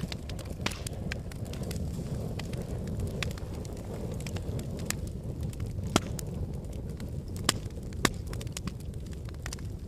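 Wood fire burning in a fireplace: a steady low rumble of flames with frequent sharp crackles and pops, three of them louder in the second half.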